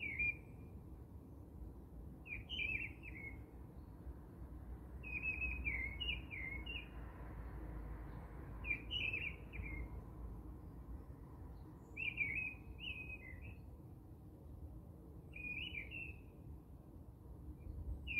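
A songbird singing short, quick chirping phrases that repeat about every three seconds, sometimes two phrases close together, over a low background rumble.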